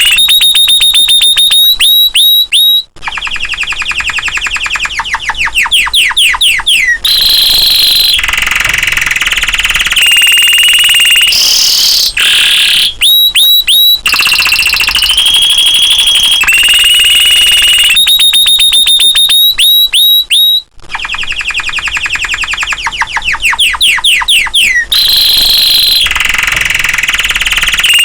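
Domestic canary singing in full song: loud, high-pitched held notes alternating with very fast rolling trills and gliding notes, with brief breaks between phrases. The same sequence of phrases comes round again about 18 seconds later.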